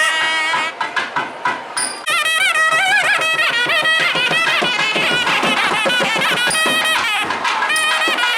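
Nadaswaram playing an ornamented Carnatic melody, its reedy tone sliding and wavering in pitch. Drum strokes, typical of the thavil, break in during the first two seconds before the melody resumes.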